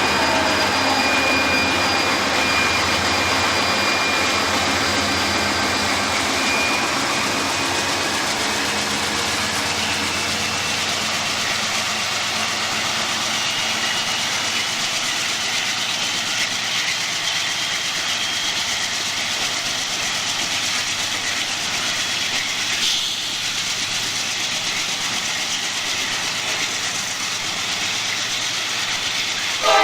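Coal train rolling by: a steady rumble and rattle of wheels on rail, with thin high squealing tones in the first half, easing off a little toward the end.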